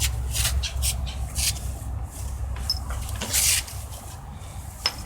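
A cat licking and rubbing her face on a catnip-filled toy pillow: short rasping strokes, about three a second at first, then fewer and more spread out.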